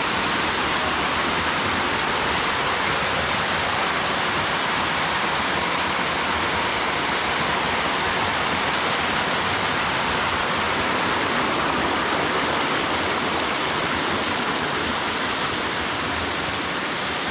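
Waterfall: water pouring steadily down from the hillside, a constant even rushing noise.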